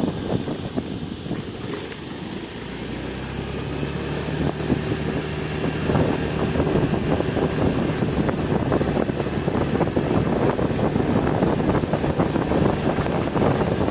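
An engine running, with wind buffeting the microphone; it grows louder over the first few seconds and then holds steady.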